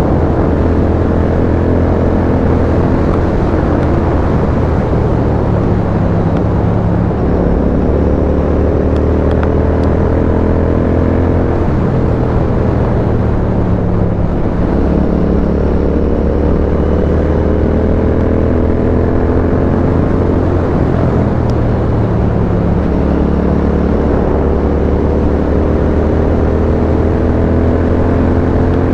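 Royal Enfield Continental GT 650's 648 cc parallel-twin engine through an aftermarket custom exhaust, heard on board while riding. The exhaust note climbs steadily and drops back several times at gear changes.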